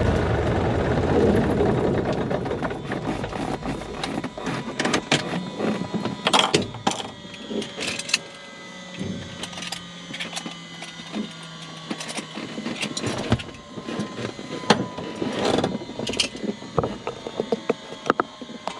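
Cessna 140's idling engine stopping, then scattered clicks and rattles in the cockpit, with faint thin whines slowly falling in pitch.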